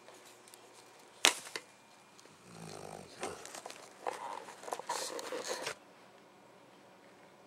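A sharp click a little over a second in, then a sleeping dog snoring and snuffling for about three seconds before going quiet.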